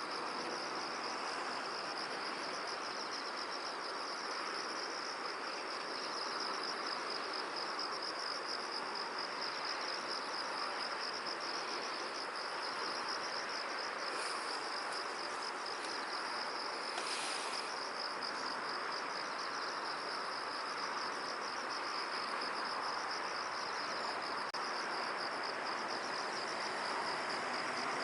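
Open-field ambience: a steady, high-pitched rapid trill like an insect chorus runs over an even rustling hiss. A couple of brief high chirps come through near the middle.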